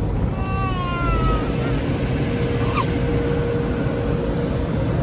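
A baby fussing: one drawn-out whimper falling in pitch early on and a short high squeal a little past halfway, over the steady rumble and hiss of an automatic car wash heard from inside the car.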